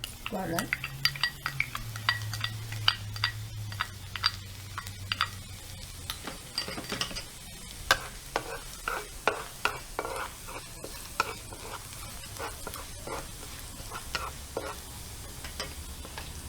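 Garlic sizzling in hot cooking oil in a pan while a spatula stirs it, clicking and scraping against the pan over and over.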